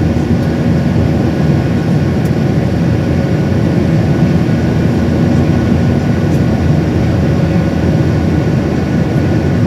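Airliner's engines running at steady high power during takeoff or climb: a loud, even roar, heaviest in the low end, with a few faint steady tones above it.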